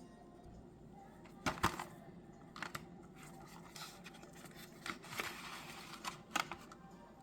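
Small tools and phone parts being handled: scattered clicks, taps and short scraping or peeling sounds, the loudest about one and a half seconds in and again near six seconds in.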